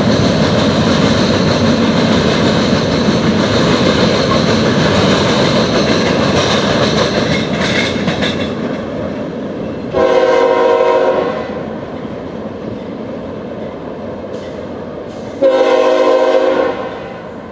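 A train rolls past with wheel clatter that fades away about eight seconds in. Then a diesel locomotive's air horn sounds two chord-like blasts, each just over a second long, about five seconds apart.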